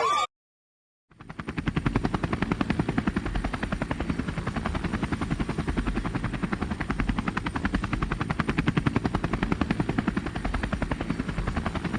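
A machine running with a rapid, steady pulsing, starting about a second in after a short gap of silence.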